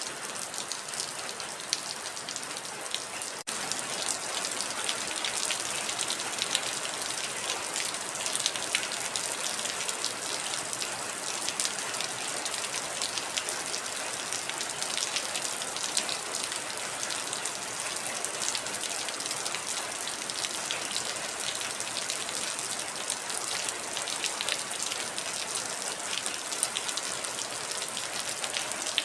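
Heavy rain falling steadily, a dense patter of individual drops striking over a constant hiss. It drops out for an instant about three and a half seconds in and comes back slightly louder.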